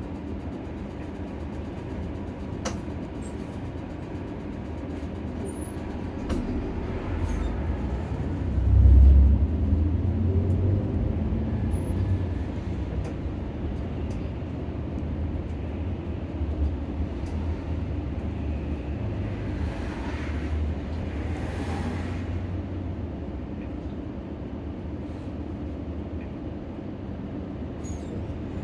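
Nissan Diesel PKG-RA274KAN city bus heard from inside the cabin while running: a steady low engine and road rumble that swells to its loudest about nine seconds in, with scattered small clicks and rattles.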